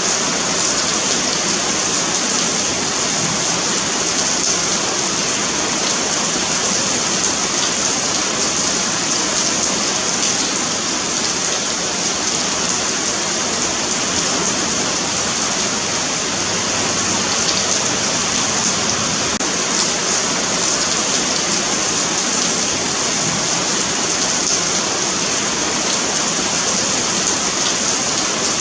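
Rain falling steadily on a pavement, an even hiss of drops strongest in the high range, with a few faint tapping drops.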